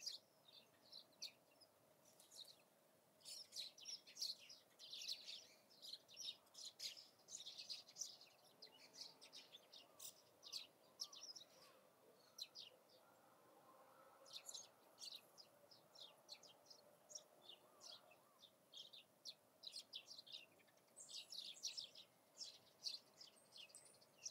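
Small birds chirping: many short, high calls in quick irregular series, coming and going in clusters, fairly faint.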